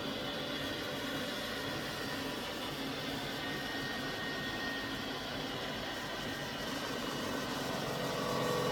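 Samsung VR50T95735W robot vacuum running, a steady motor whir with a slight swell and a clearer tone near the end, while it tries and fails to drive into its charging dock.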